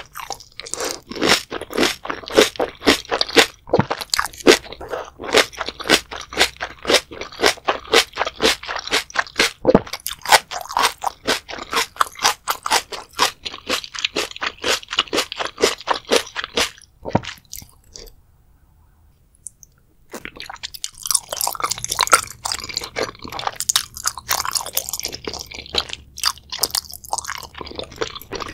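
Close-miked crunching and chewing of crisp, sauce-coated bok choy in rapid, even crunches. These stop for a short pause about two-thirds of the way through, then give way to softer, wetter chewing of wide, flat glass noodles.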